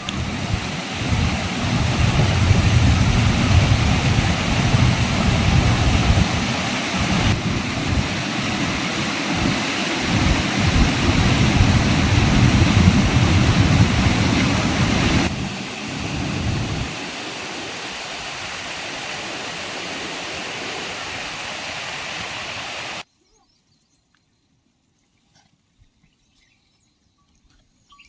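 Heavy rain hissing in a storm, with wind gusting on the microphone in a low rumble. The rumble drops away about two-thirds of the way through, leaving a steady rain hiss that cuts off suddenly.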